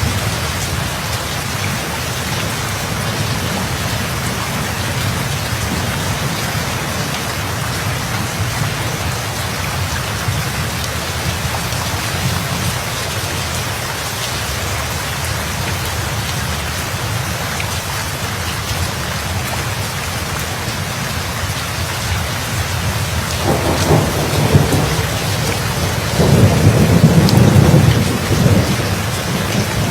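Steady heavy rain falling, with a rolling thunderclap that builds about three-quarters of the way in and is loudest for a couple of seconds near the end.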